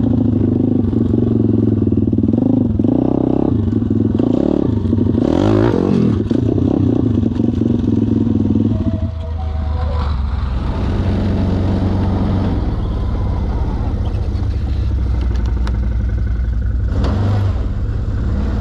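Pit bike engine being ridden, revving up and down under throttle, then dropping off about nine seconds in and running lower and steadier.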